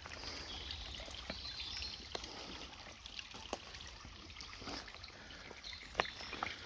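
Faint trickle of water in a nearly dry woodland brook, with scattered small clicks and ticks and one sharper click about six seconds in.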